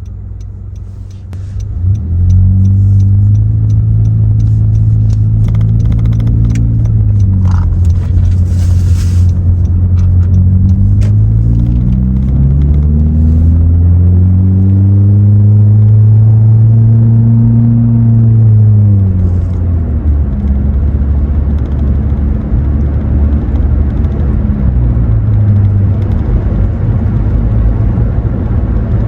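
2017 Honda Accord LX's 2.4-litre four-cylinder engine droning loudly through a muffler-delete exhaust under acceleration, heard from inside the cabin. It surges about two seconds in, climbs in pitch in a long pull, drops back near two-thirds of the way through, then drones steadily at cruise.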